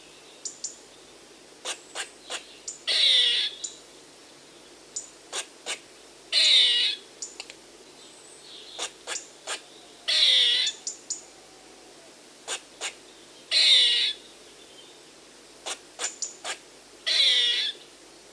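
Squirrel alarm calling: a few short sharp chips, then a louder, longer call that drops in pitch at its end. The pattern repeats evenly about every three and a half seconds, five times.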